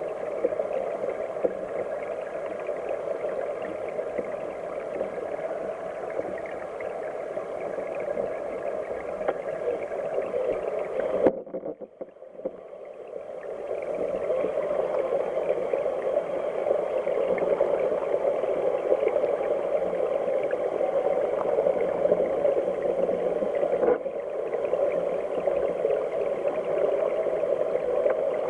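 Mountain headwater stream flowing and gurgling, a dull, muffled rush of water. About eleven seconds in there is a knock, after which the sound drops away for a couple of seconds and swells back.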